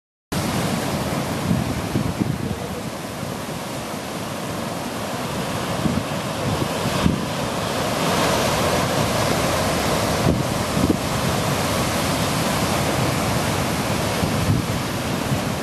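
Ocean surf rushing and washing against a rocky shore, with wind buffeting the microphone. The wash of water grows louder about eight seconds in.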